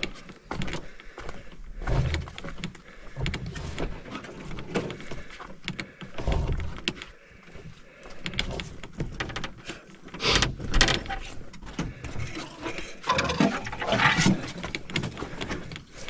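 Footsteps through mud on a portage trail, with uneven low thumps and scattered rustles and clicks of gear as a loaded hiker walks.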